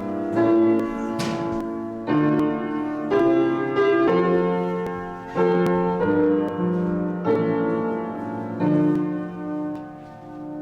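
Piano music playing slow chords, with a new chord struck about once a second and each one dying away; it fades near the end.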